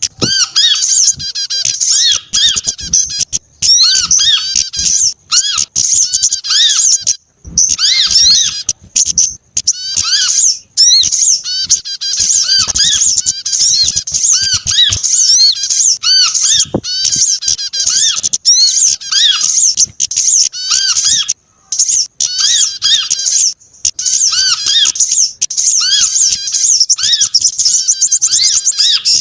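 Bird-lure recording of small songbirds calling over one another: dense, rapid, high-pitched chirps and trills that repeat with only brief pauses. It is played loud to draw small birds in.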